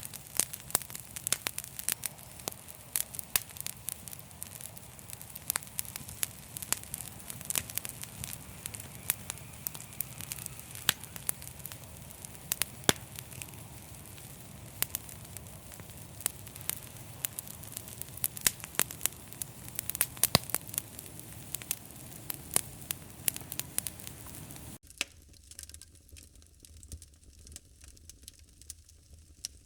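Fire crackling, with frequent sharp pops and snaps over a steady low hiss. About 25 seconds in, the hiss drops away abruptly and the crackles become sparser and quieter.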